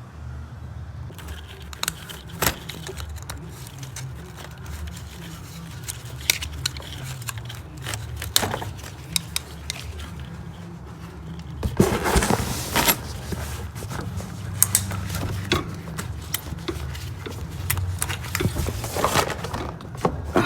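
Metal hand tools and parts clinking and clattering on and off, over a steady low hum, with a longer rushing noise about twelve seconds in.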